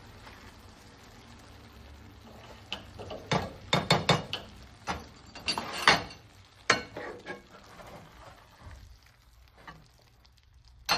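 Kitchen utensil clinking and knocking against cookware: a run of sharp clinks, some ringing briefly, starting a couple of seconds in and lasting about four seconds, then one more clink near the end, over a faint low hum.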